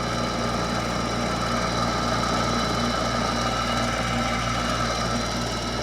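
Hampton Bay 8,000 BTU window air conditioner running steadily: a constant low hum with a steady higher whine over it. Its fan motor sounds worse than the same-model unit before it, and the units are called shot after only a few years.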